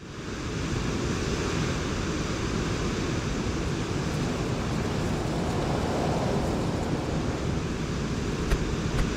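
Steady rush of wind and water, as aboard a sailing yacht under way. Two faint clicks near the end.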